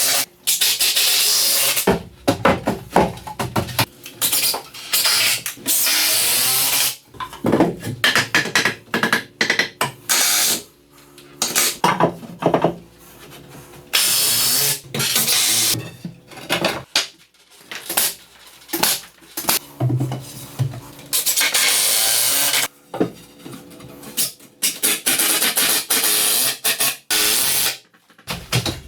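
Carpentry tool work on wood: a string of noisy cutting and drilling bursts, each a fraction of a second to about two seconds long with short gaps between, over faint background music.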